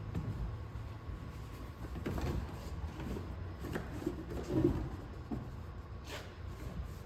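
Scattered knocks and clunks of interior parts being handled and moved inside a pickup cab, with a louder clunk about four and a half seconds in, over a low background rumble.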